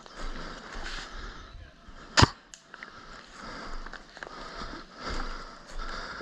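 A single sharp airsoft gun shot about two seconds in, followed by a fainter click, over low rustling of movement.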